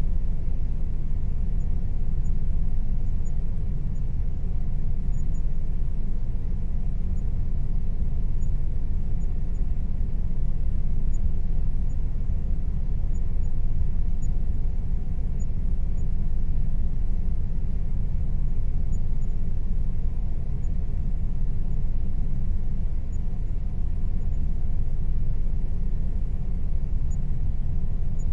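Air conditioner running steadily: a low, even hum with a faint steady tone above it.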